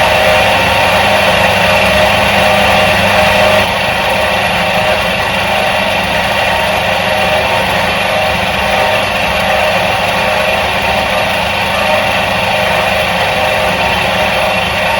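Electric motor of a 1977 Soviet washing machine running steadily, a continuous hum and whir with a few fixed tones. It drops a little in level about four seconds in, then runs on unchanged.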